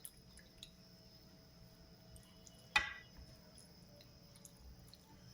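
Faint, wet eating sounds from someone eating ghee rice and fried chicken, with small soft clicks and one sharp click a little under three seconds in.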